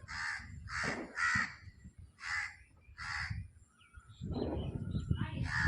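A bird giving a series of harsh calls, about five in the first three seconds. A low rumbling noise comes in about four seconds in, and one more call follows near the end.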